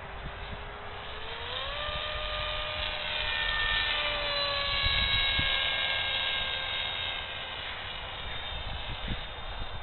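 Whine of an AXN electric foam RC plane's brushless motor and 6x5 propeller in flight. It rises in pitch about a second and a half in as the throttle opens, grows louder toward the middle, then eases off as the pitch slowly sinks.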